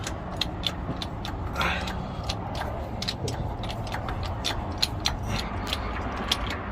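20-ton hydraulic bottle jack being pumped by its handle to lift an RV, giving a quick, even run of clicks.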